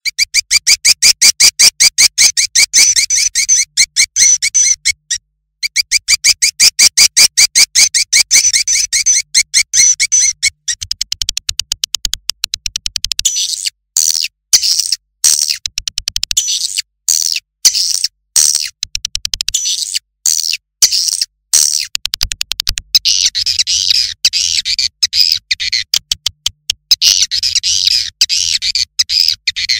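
A swiftlet lure track: recorded swiftlet calls, a fast, unbroken run of high chirps at about seven a second, with a faint low hum beneath. It briefly stops about five seconds in, and from about 13 to 22 seconds in it breaks off several times into short gaps.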